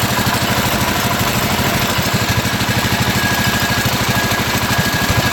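Pulling tractor's engine running at a steady idle, a fast, even putter of firing pulses with a faint steady whine over it.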